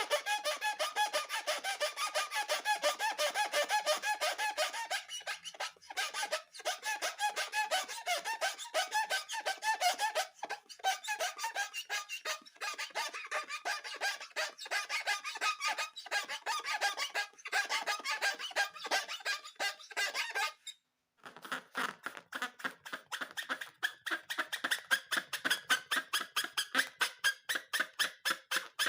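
Rubber balloons squeaking as they are rubbed and squeezed: a fast, continuous run of short squeaks, broken by a brief pause about two-thirds of the way through.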